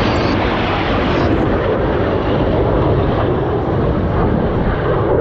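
Loud, steady jet noise from the Red Arrows' BAE Hawk jet trainers flying their display.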